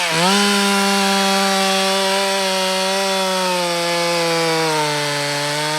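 Chainsaw engine running at high revs. Its pitch dips briefly at the start, holds steady, then sags slightly near the end.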